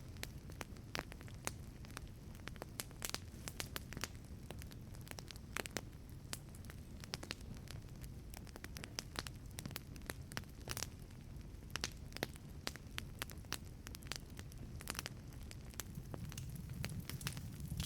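Wood fire burning in a wood-fired pizza oven: dense, irregular crackles and pops over a steady low rumble, with the rumble growing stronger near the end.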